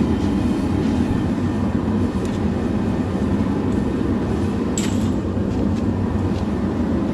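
Forge running with a steady, low rushing noise as it heats the Damascus billet.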